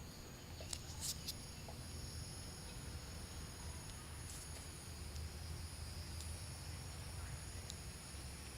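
Night insects chirring outdoors: steady high-pitched trills at two or three pitches, with a few sharp clicks about a second in and a low steady rumble underneath.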